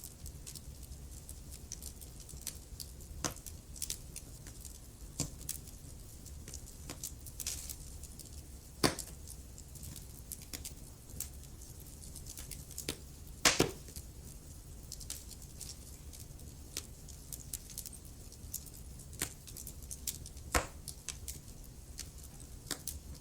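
Wood fire burning in a fireplace, logs crackling with irregular pops and snaps over a low steady rumble of the flames. Two louder snaps come about 9 and 13 seconds in.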